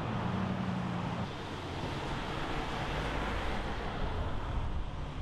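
Street traffic noise: a steady wash of passing vehicles, with a low engine hum in the first second or so.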